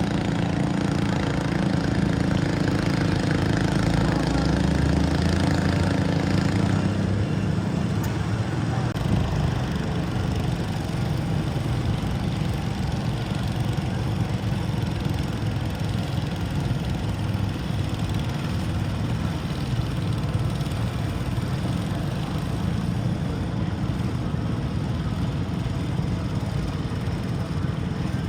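Garden tractor engine running hard under load during a sled pull. About seven seconds in, its steady pitch drops and the sound turns rougher, and it runs on that way.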